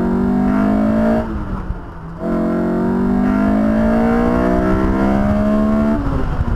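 2002 Honda S2000's 2.0-litre F20C four-cylinder engine accelerating hard, heard from inside the open cockpit: the engine pitch climbs, falls away for about a second, then climbs steadily again for several seconds before the driver comes off the throttle near the end.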